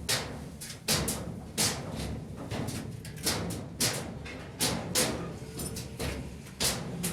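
A series of sharp knocks at uneven spacing, roughly one to two a second, over a steady low rumble.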